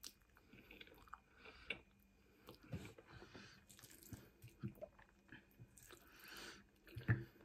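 Someone chewing a mouthful of noodles in curry sauce, with small clicks and scrapes of a wooden fork against a plate; a sharper knock near the end.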